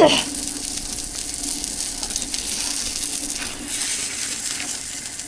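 Food frying on a hot pan, a steady sizzling hiss, with a faint steady hum underneath.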